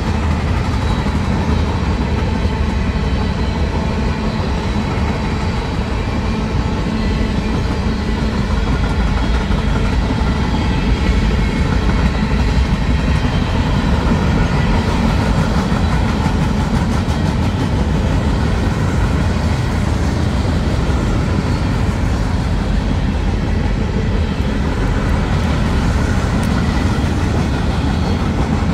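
Freight cars of a mixed freight train rolling past at a steady speed, their steel wheels running on the rails in one even, continuous noise.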